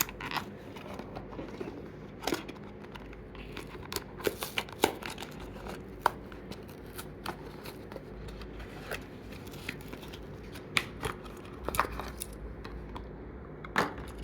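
Toy train packaging being opened by hand: cardboard and plastic handled and torn, with many scattered sharp clicks and crinkles.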